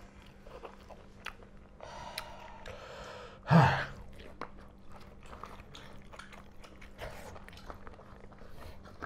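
People chewing and smacking mouthfuls of pork curry and rice eaten by hand, with many small wet mouth clicks. One louder short mouth noise stands out about three and a half seconds in.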